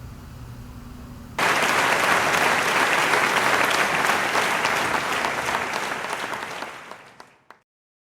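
Audience applauding: it breaks out about a second and a half in, then fades away over several seconds to silence.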